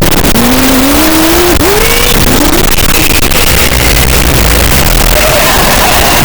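Loud, steady roar of an airplane bearing down very close overhead, a dense rushing noise with a heavy low rumble that holds at full strength throughout.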